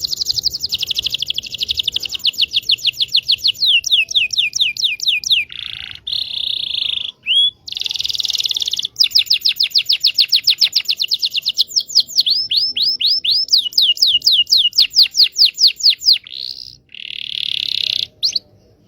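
Local Indonesian canary singing a long, continuous song of rapid trills, repeated notes in quick runs with a few short breaks, then slower sweeping notes in the second half. It is a lure song of the kind played to coax canaries that have stopped singing, or young birds still learning, into song.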